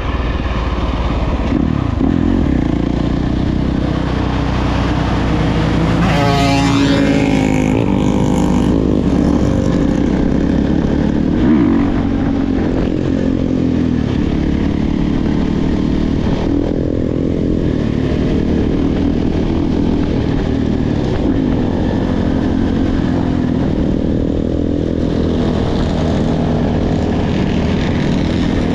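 Dirt bike engine running under way, its pitch rising and falling with the throttle and a clear rev up about six seconds in.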